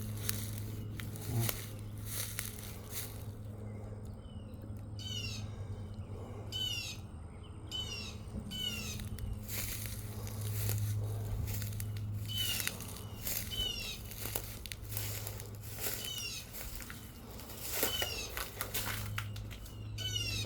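Small birds chirping in short, repeated, falling notes, with a steady low hum and scattered clicks underneath.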